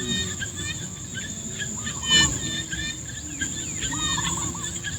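A chorus of many short chirping and warbling animal calls over a steady high-pitched insect drone, with a low rumble underneath. There is a brief knock about two seconds in.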